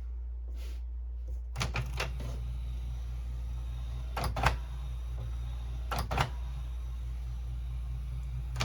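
Canon Pixma inkjet printer's mechanism running its power-up cycle. A motor hum starts about a second and a half in, with sharp mechanical clacks every couple of seconds.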